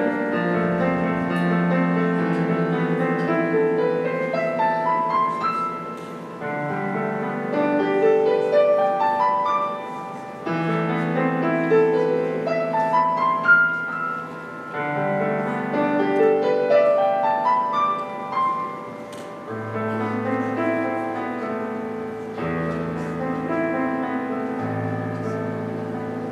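Solo piano playing rising arpeggios over held low notes, in phrases that start about every four seconds. Near the end the runs give way to slower chords with deeper bass notes.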